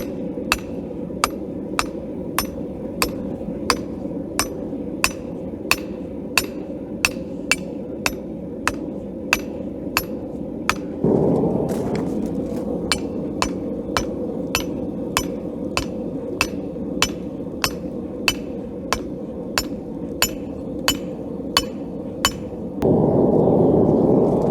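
Hand hammer striking hot steel on an anvil while forging a knife blade, in an even rhythm of about three blows every two seconds. Under the blows is a steady low rushing noise that swells louder briefly about eleven seconds in and again near the end.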